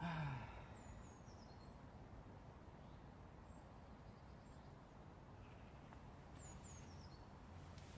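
A man's short falling sigh at the start, then quiet woodland with a steady low background rush. A bird sings two brief descending phrases, about a second in and again near the end.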